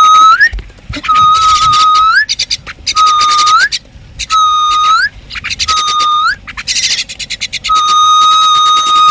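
Common myna giving a run of loud whistles, about six short notes that each hold one pitch and slide upward at the end, then one long, steady held whistle near the end.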